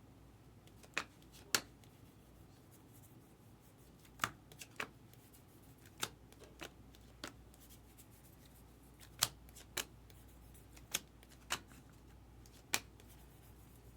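Trading cards being flipped through one at a time, each card snapping against the next with a short, sharp click. There are about a dozen clicks at irregular intervals, some coming in quick pairs.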